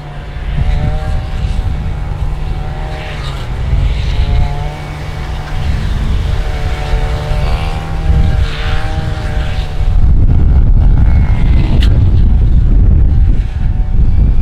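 Jet airliner passing low overhead near the runway: engine rumble with a wavering whine over it, growing to its loudest from about ten seconds in.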